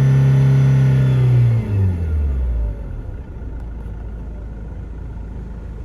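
Diesel car engine held at about 4,000 rpm, then released about one and a half seconds in, its note falling quickly back to a low, steady idle.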